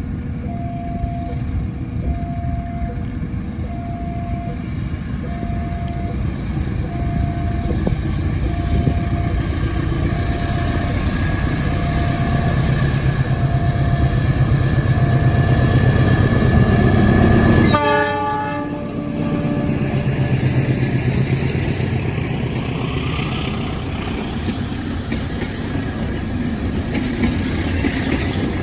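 A passenger train approaching and passing, its rumble growing heavier until a short horn blast about two-thirds of the way through, then running on past with wheel clatter. A two-tone alternating warning signal beeps during the first half.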